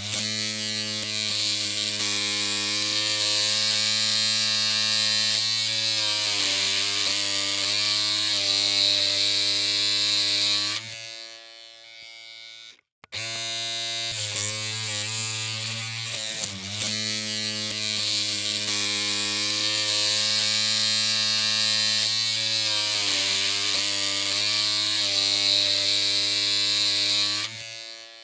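Electric hair clippers humming steadily with a buzzy tone, in two long runs, each trailing off into a quieter tail with a brief silent gap between them near the middle.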